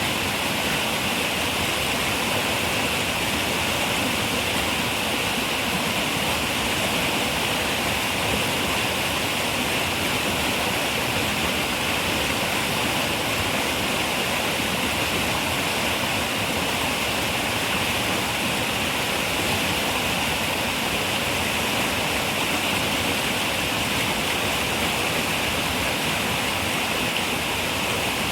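River water rushing and flowing in a steady, unbroken stream.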